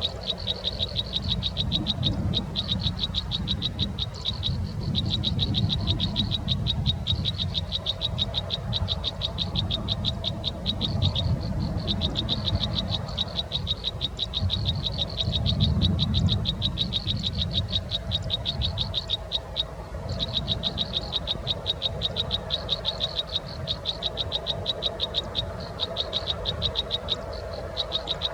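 A high, rapidly pulsing animal trill that runs on with short breaks every several seconds, over a low steady rumble.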